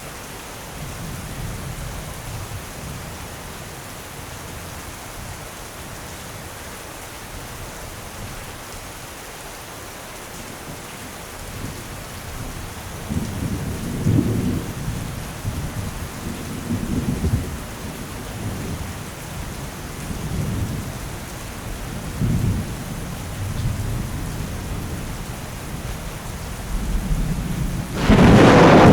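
Thunderstorm: steady rain hiss, with low rolling thunder rumbling in swells from about halfway through, then a sudden loud thunderclap near the end.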